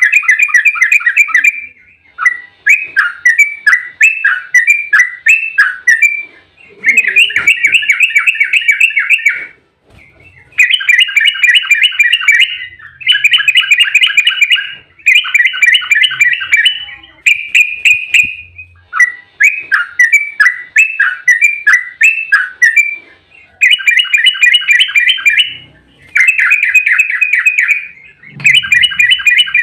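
Yellow-vented bulbul (trucukan) singing fast, tightly packed chattering phrases. Each burst lasts about two seconds, with short pauses between, repeated about a dozen times.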